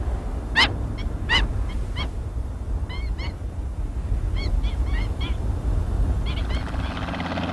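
Wild birds calling: many short, repeated chirps in small groups, with two louder, longer calls that sweep downward in pitch early on, over a low steady rumble.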